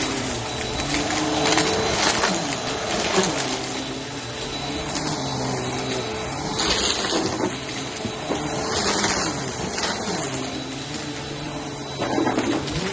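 Helix vacuum cleaner running over carpet, its motor pitch dipping and recovering as it is pushed. Crunchy surges about every few seconds come from spilled cereal being sucked up.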